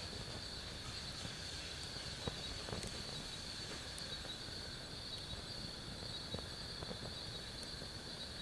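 Night insects, crickets or katydids, chirring in a continuous high-pitched chorus. Faint scattered crackles of a wood fire burning in a camping fire pit run under it.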